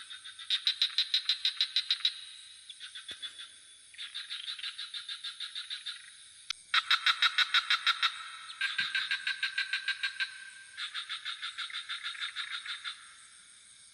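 Frogs calling in repeated pulsed trills, each about two seconds long at roughly eight pulses a second, one after another with some overlapping. A steady high-pitched insect chorus of crickets runs underneath.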